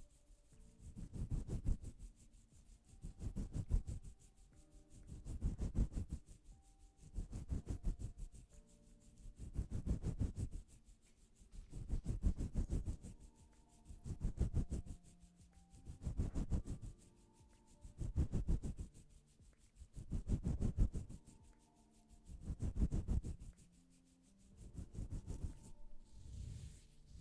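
Rhythmic rubbing or scraping strokes, one about every two seconds, each a rough swell lasting about a second.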